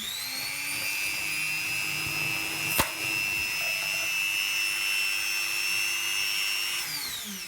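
Small drum sander fitted with a 320-grit sanding wheel spinning up, running with a steady high whine, and spinning down near the end. There is one sharp snap about three seconds in.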